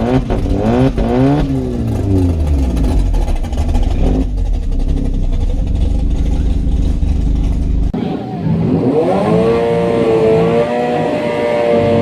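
Car engine revving, its pitch rising and falling quickly for the first couple of seconds, then running with a steady rumble. About eight seconds in the sound changes abruptly to an engine note that climbs and then holds steady.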